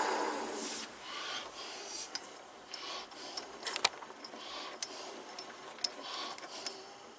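Wood lathe winding down after being switched off, its motor hum fading out within the first second. Then scattered light clicks and taps, with a sharper click a little under four seconds in.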